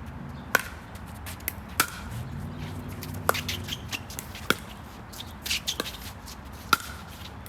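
Pickleball rally: paddles strike the plastic ball about five times, a sharp pock every second or so, with shoes scuffing on the court between hits.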